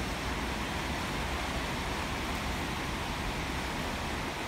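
Steady hiss of falling rain on the workshop's steel roof and the wet concrete, with an uneven low rumble underneath.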